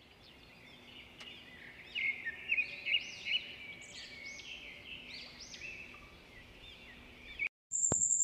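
Birds singing in a run of short, repeated arching chirps over faint outdoor background noise, cutting off abruptly near the end. A steady high-pitched tone follows.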